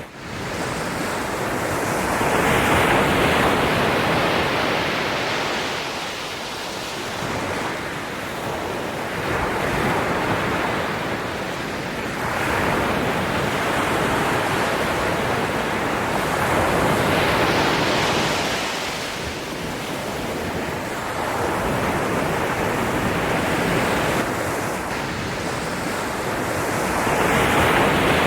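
Ocean waves washing onto a shore, the surf swelling and fading every few seconds with no break.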